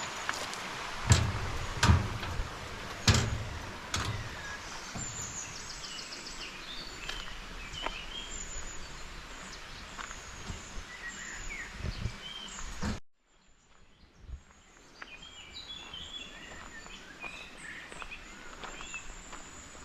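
Outdoor ambience with small birds chirping over a steady background hiss, and a few heavy footsteps in the first three seconds. About two-thirds of the way through the sound cuts out abruptly, then birds chirp again over a quieter background.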